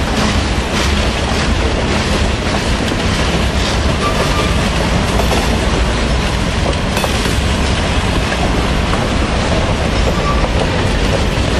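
Train rolling past steadily, its wheels clacking rhythmically over the rail joints.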